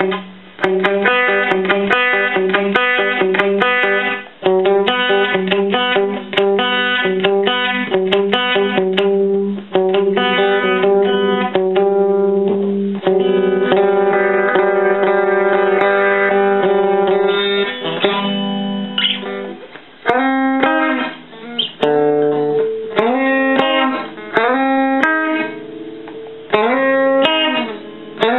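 Electric guitar played through a Roland Jazz Chorus combo amplifier. About twenty seconds of ringing, repeated chords give way to single-note lines with pitch bends.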